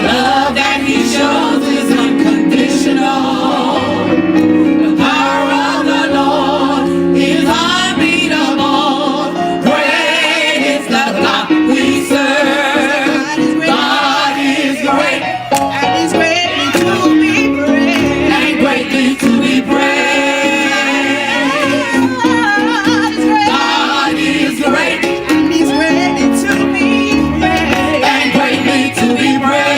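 Gospel choir singing live, several voices together over steady low accompaniment.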